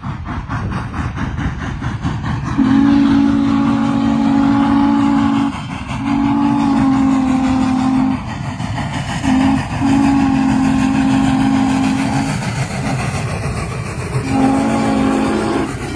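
Norfolk & Western 611 steam locomotive's deep chime whistle blowing the grade-crossing signal, two long blasts, a short one and a long one, then another blast near the end. The locomotive's rhythmic running sound goes on underneath.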